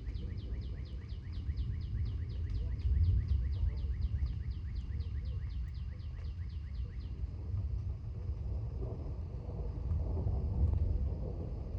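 Low rumble of an approaching thunderstorm that swells twice, with a songbird singing a long, quick series of down-slurred whistled notes, about four a second, that stops about seven seconds in.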